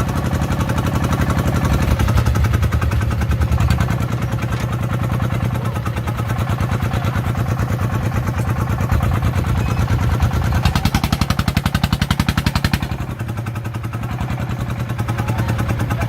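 A farm vehicle's diesel engine running under load, with a rapid, even firing beat. It grows louder and harsher for about two seconds a little past the middle, then eases back.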